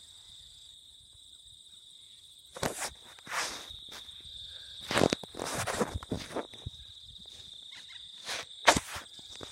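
Footsteps, a few uneven steps starting about two and a half seconds in, with one sharper step near the end. Under them is a steady high insect trill, typical of crickets.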